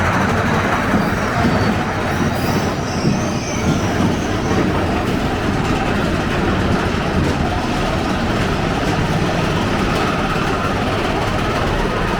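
Big Thunder Mountain Railroad mine-train roller coaster running along its track, a steady loud rumble of wheels on rail heard from aboard the train.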